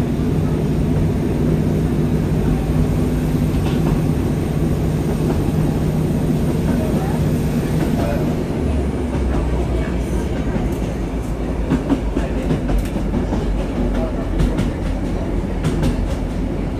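Diesel passenger train running along the line, heard from inside the carriage: a steady low running note that drops to a lower, even hum about eight seconds in, with scattered clicks and knocks from the wheels and rails later on.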